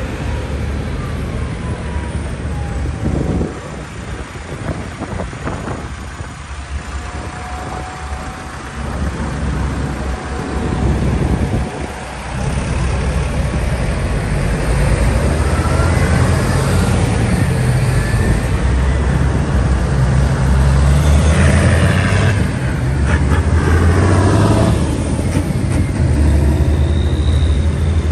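Tractor engines running as tractors drive past on the road, growing louder about halfway through as they come closer.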